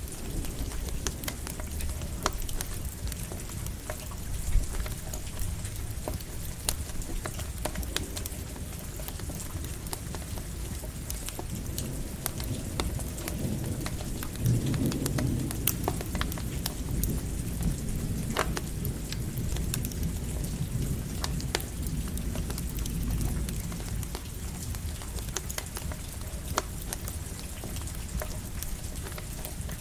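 Steady light rain with the sharp crackle and pop of a campfire. About halfway in, a low roll of thunder swells and fades over several seconds.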